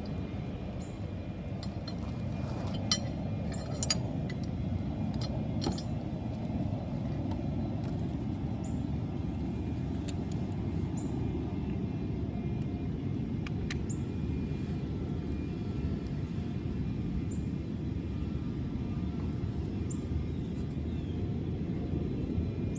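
Steady low outdoor rumble, with a few sharp clicks and taps scattered through the first half.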